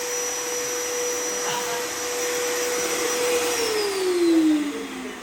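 Vacuum cleaner running with a steady whine, then switched off about three and a half seconds in, its motor falling in pitch as it spins down. Its suction is weak, which the men put down to a dirty, clogged filter.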